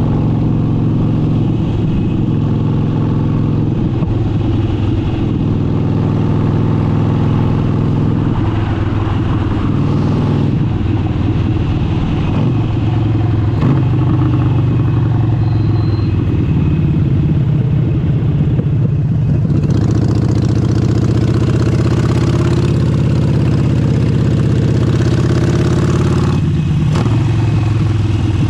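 Harley-Davidson Forty-Eight's air-cooled 1200 cc V-twin running through an aftermarket exhaust under way, holding a fairly steady pitch with small rises. From about two-thirds of the way in, more wind and road hiss joins it.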